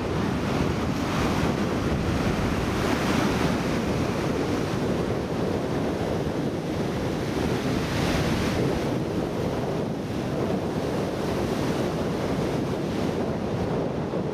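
Ocean surf breaking and washing on a sandy beach, a steady rushing that swells a little now and then, with wind buffeting the microphone.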